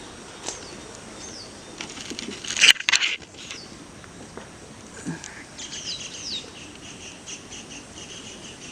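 Birds chirping with short sweeping high notes, broken by a brief loud rustle about three seconds in. From about five and a half seconds a bird gives a quick run of repeated chirps.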